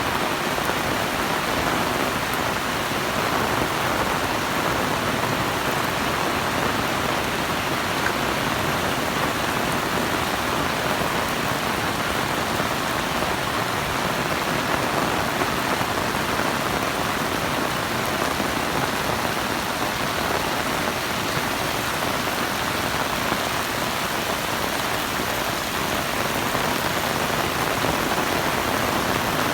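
Heavy rain falling steadily: a dense, even downpour with no let-up.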